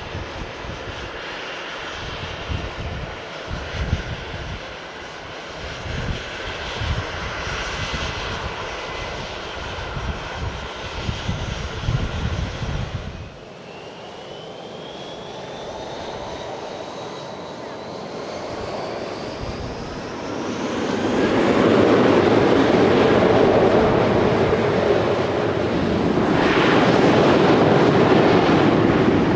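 Jet airliner engines spooling up with a whine that rises steadily in pitch, then the loud roar of takeoff thrust from about 20 seconds in. Before that, about 13 seconds of wind buffeting the microphone over a steady engine hum, ending in an abrupt change.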